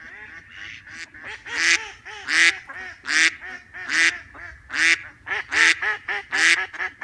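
Ducks quacking repeatedly, with a loud harsh quack about once a second and softer quacks from more than one bird in between.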